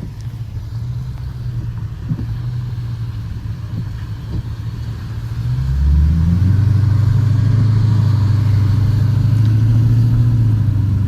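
Dodge Challenger R/T's 5.7-litre HEMI V8 under way, a steady low drone that gets louder about halfway through as the throttle opens, then holds at the higher level.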